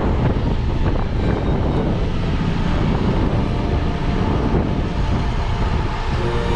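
Steady, loud low rumbling noise with no distinct tones or strikes.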